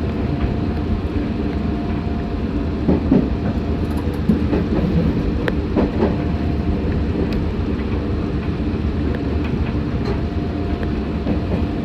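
Meitetsu 6500 series electric train running, heard from inside the car: a steady low rumble from wheels and track, with a few brief creaks or squeals a few seconds in.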